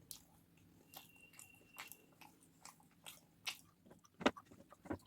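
A person chewing and biting food close to the microphone: irregular sharp mouth clicks and crunches that grow louder near the end.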